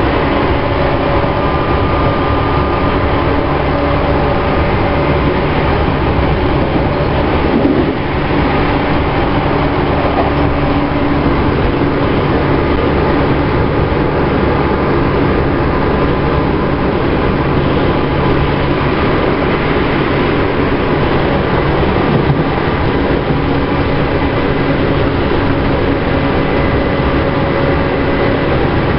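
Tokyu 5050 series electric train running at a steady speed: an even rumble of wheels on rail with a few steady humming tones over it.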